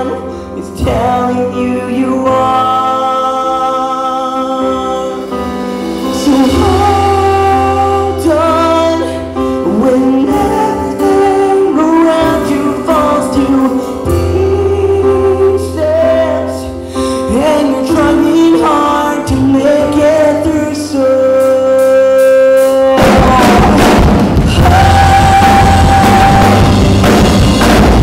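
Live band playing a worship pop-rock song with singing over sustained chords. About 23 seconds in, the full band with drum kit comes in loudly.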